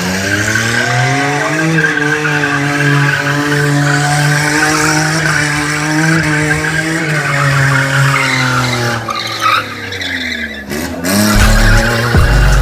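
A car engine revs up, is held at high revs for several seconds, and then drops back. Music with a heavy bass beat comes in near the end.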